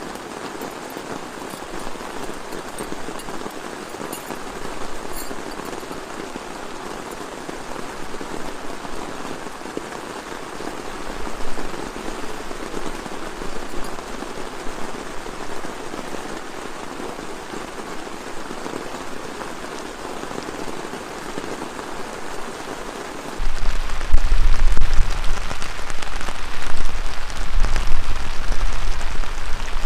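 Heavy rain falling steadily. About 23 seconds in it turns much louder, with a deep rumble of strong wind buffeting the microphone.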